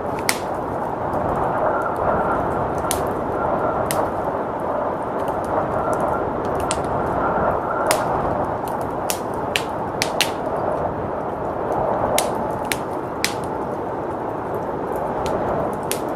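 Wood fire crackling, with irregular sharp pops, over a steady rush of blizzard wind.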